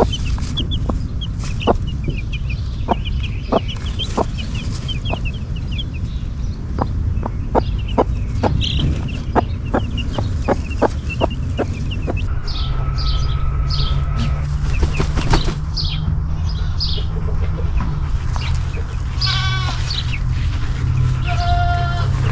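Chickens clucking and chicks peeping, with short chirping calls coming more often in the second half over a run of sharp taps or clicks in the first half and a steady low rumble.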